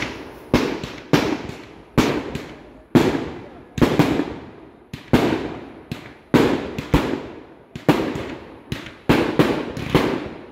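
Aerial fireworks bursting in quick succession: about fifteen sharp bangs, roughly one every half-second to second, each trailing off in a rumbling echo.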